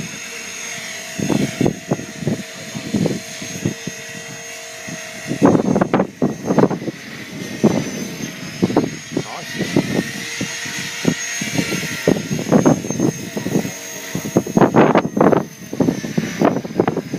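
Blade 450 3D electric radio-controlled helicopter in flight, a steady whine from its brushless motor and rotor that wavers in pitch as it manoeuvres. Wind buffets the microphone in irregular gusts.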